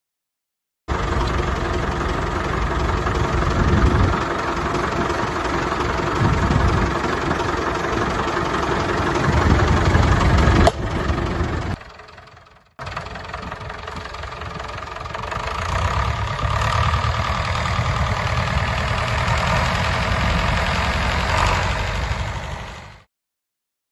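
David Brown 995 tractor's three-cylinder diesel engine running steadily, with a few brief surges in the first half. The sound breaks off sharply about halfway through, drops away briefly, then the engine is heard running again.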